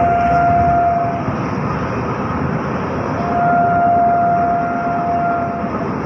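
Indian train running with a steady rush of wheel and rain noise, and two long steady horn blasts on one pitch: the first cuts off about a second in, and the second sounds from about three seconds in until near the end.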